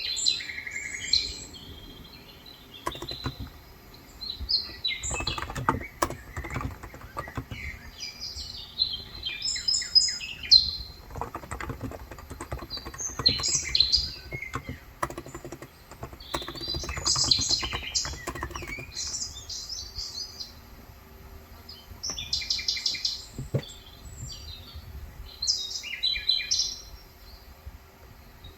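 Small birds chirping throughout, with several bursts of rapid typing on a Cox Endeavour capacitive (contactless) 35 g tenkeyless keyboard, its keystrokes soft and muted.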